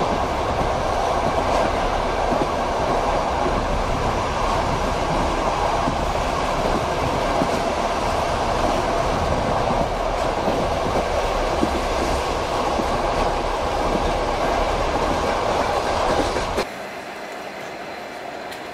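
Passenger railway carriage running along the track, a steady rolling noise of wheels on rails. Near the end it drops abruptly to a quieter, thinner run.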